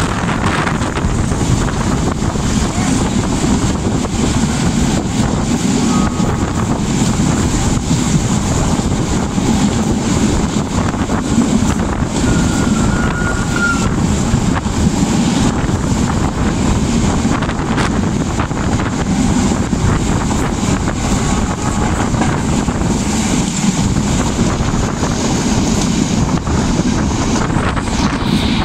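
Wind rushing over the microphone at an open carriage door, together with the running noise of a moving express passenger train. A steady, loud din with no clear clatter rhythm.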